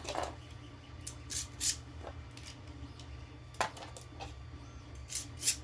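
Scattered sharp clicks and taps of hard plastic Beyblade parts, about eight of them at uneven intervals, the loudest near the end.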